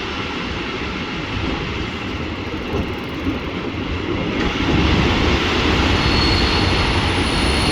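Regional train running, heard from on board: a steady rumble of wheels on the track that grows louder about halfway through, with faint thin high squeals coming in near the end.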